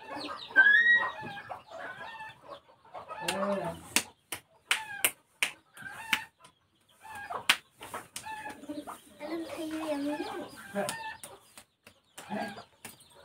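Short, clucking-like bird calls, mixed with a string of sharp clicks and a few voices.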